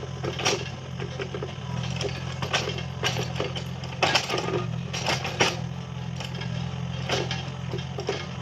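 Mini excavator's diesel engine running steadily under work, with irregular sharp clanks and knocks from the machine working.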